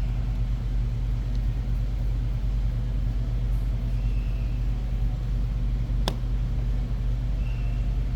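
Steady low droning hum of background machinery or room noise, with one sharp click about six seconds in.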